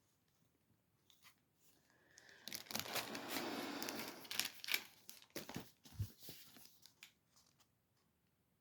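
Plastic packaging of a cross stitch kit crinkling as it is handled, a dense rustle for a couple of seconds starting about two and a half seconds in, then scattered crackles and a soft knock.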